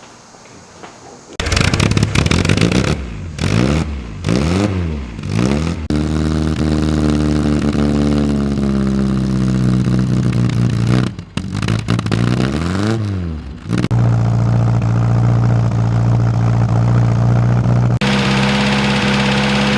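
MG Midget's 1275 four-cylinder engine starting about a second and a half in, then revved up and down several times before settling to a steady idle. Partway through it dips, is revved once more and idles again, and a loud hiss joins near the end.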